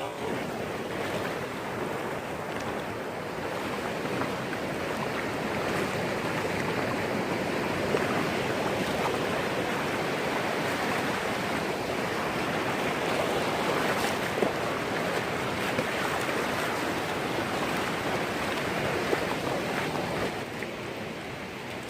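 Sea surf washing on the shore, a steady rushing that swells a little and eases near the end, with a few faint clicks.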